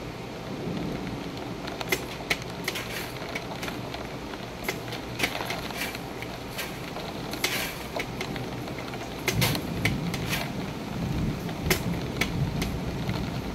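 Thunderstorm rain falling steadily, with scattered sharp drops tapping close by. A low rumble swells up about nine seconds in.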